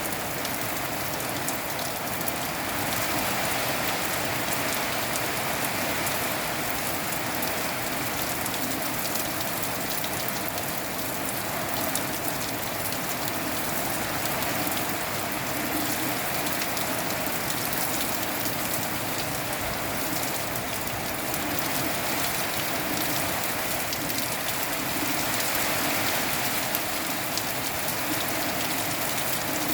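Steady rain falling, a dense even hiss dotted with many small drop impacts.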